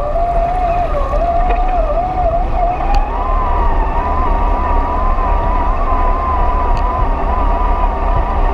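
Electric motor of an RC scale crawler whining, its pitch wavering with the throttle and stepping up about three seconds in, over a steady low rumble.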